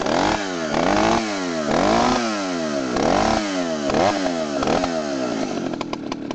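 1968 Dolmar CC Super two-stroke chainsaw revved repeatedly, its pitch rising and falling about once a second, then dropping back to a lower, steadier idle near the end.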